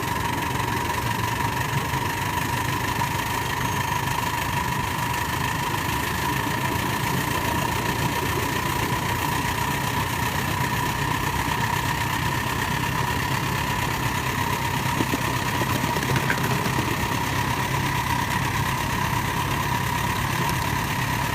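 Live-steam Heisler geared locomotive running steadily along the track, a constant mechanical running noise with a steady high tone over it.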